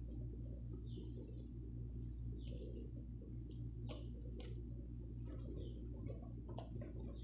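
Small birds chirping in short, high notes, about one or two a second, over a steady low hum, with a few sharp clicks.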